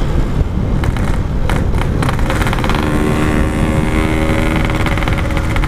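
Yamaha RX-King two-stroke motorcycle engine running on the move, with wind rumbling on the microphone. From about two seconds in, the engine holds a steady pitch.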